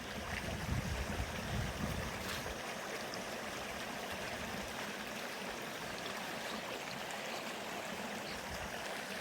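Steady rushing of river water, with a low rumble in the first couple of seconds.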